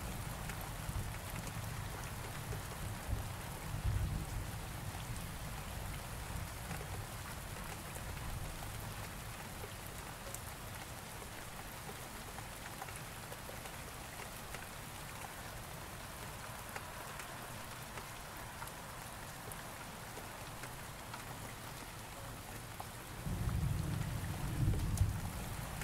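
Steady rain falling, with low thunder rumbling that fades away over the first several seconds and rolls in again near the end.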